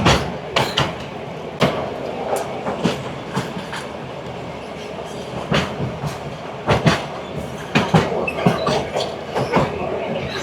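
Šargan Eight narrow-gauge train carriage running along the track: a steady rumble with repeated sharp, irregularly spaced clacks and knocks.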